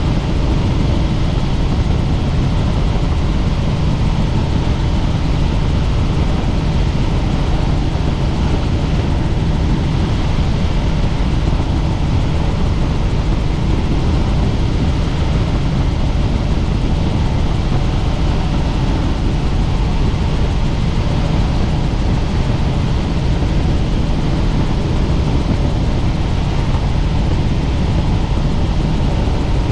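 Helicopter in flight: steady, loud engine and rotor noise that holds without change.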